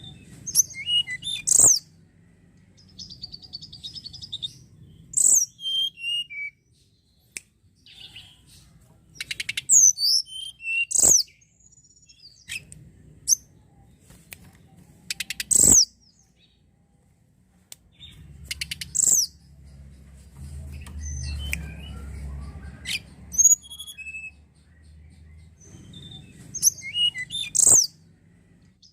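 A tledekan gunung singing in short bursts of sharp, high chirps and rapid trills, separated by pauses of a second or two.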